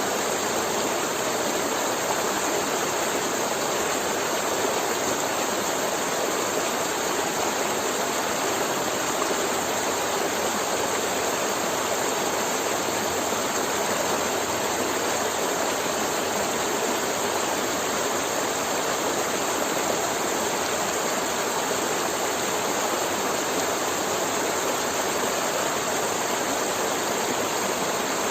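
Forest river flowing over rocks: a steady, even rush and gurgle of running water.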